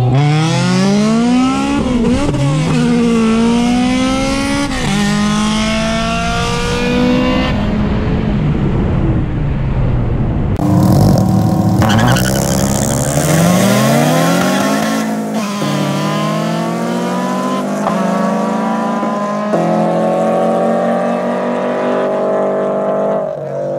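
Cars' engines at full throttle in roll races. First, one car accelerates hard through the gears, its engine pitch climbing and dropping back at each upshift. After a break, a built naturally aspirated K20 Honda Civic and a supercharged Scion FR-S rev up together and pull away from a rolling start, their engine notes rising in long climbs.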